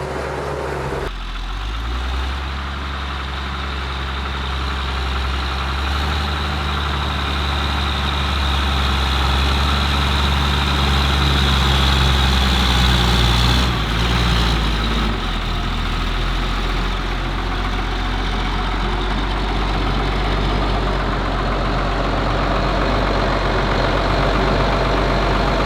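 Ford TW tractor's diesel engine running steadily while ploughing. Its note shifts about a second in, builds, then drops twice around the middle and holds steady at the lower note to the end.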